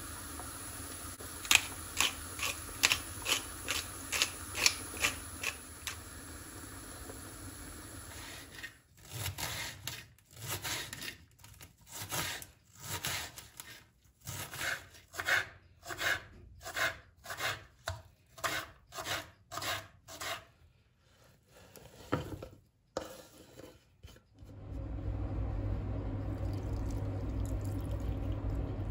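Hands-on kitchen food preparation: first a quick run of about ten sharp clicks, then a long series of short, separate strokes against a surface, then a steady low hum from near the end.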